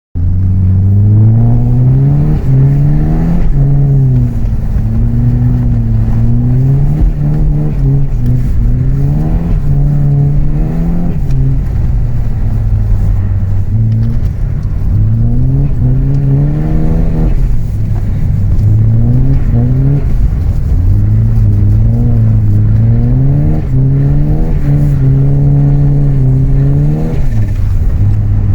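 Saab B204 four-cylinder engine in an Opel Omega, revving up and down over and over as the car is driven, its pitch climbing and dropping every couple of seconds.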